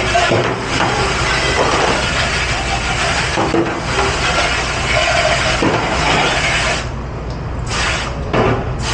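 Commercial dish pit at work: a steady hissing spray of water with some clatter of dishes over a constant low machine hum. The spray stops about seven seconds in, then comes back in two short blasts near the end.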